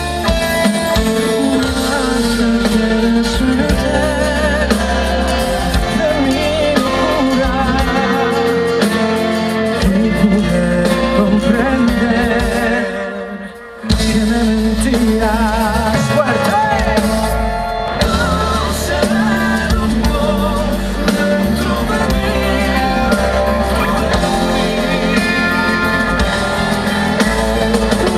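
Live band music, an instrumental passage between sung verses, with a wavering lead melody over bass and drums; the music drops away briefly about halfway through and then comes back in.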